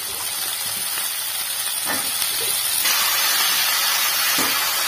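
Water-soaked brinjal (eggplant) pieces sizzling as they go into hot oil in a kadai: a steady hiss from the water on the wet pieces meeting the oil, growing stronger about three seconds in. A couple of soft knocks sound over it.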